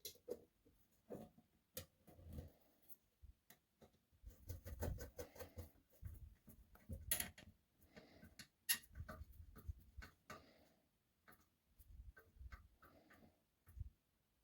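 Quiet handling noises: irregular small clicks, taps and short scrapes of small parts being worked by hand.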